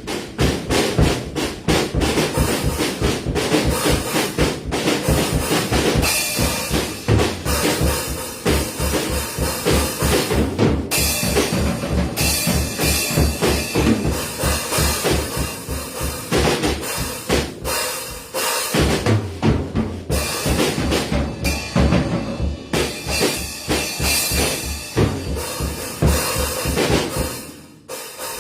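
Drum kit played hard and fast: a quick, even bass-drum beat under snare hits and a constant wash of cymbals. There are brief breaks about 19 seconds in and again near the end.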